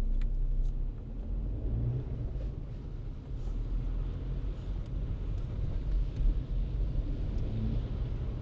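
Car driving on a city road: a low, steady rumble of engine and road noise.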